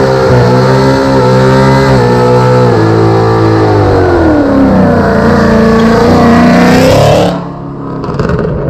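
A vehicle engine running loud and revving, its pitch stepping up and down and gliding, then cutting off suddenly about seven seconds in.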